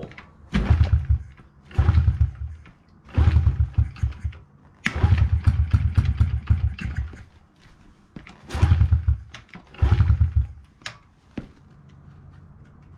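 A Honda CRF50F's small single-cylinder four-stroke being kick-started cold on choke: six bursts of cranking with quick firing pulses, the fourth lasting longest, about five seconds in. A lower steady hum follows near the end.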